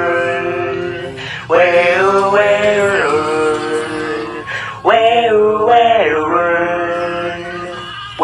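Music: a singing voice in repeated phrases, each opening with a quick bend in pitch and settling into a long held note that fades, a new phrase starting about every three seconds.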